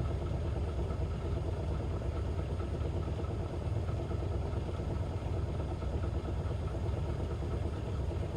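Piston engine of a Robin single-engine light aircraft running steadily in flight, heard as an even drone inside the cabin.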